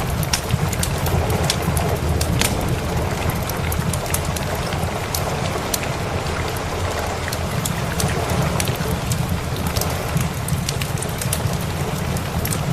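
Steady heavy rain with a low, continuous rumble underneath, and the scattered sharp crackles and pops of a wood fire burning in a fireplace.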